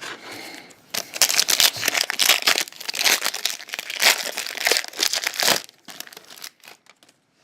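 Foil trading-card pack wrapper being torn open and crinkled, a dense run of crackling for several seconds, then a few faint rustles.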